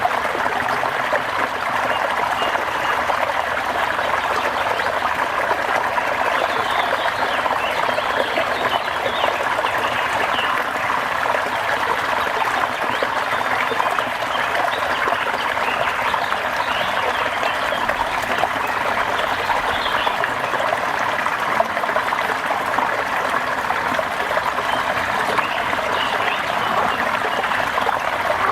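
Steady rain falling with water trickling, and faint high animal calls now and then.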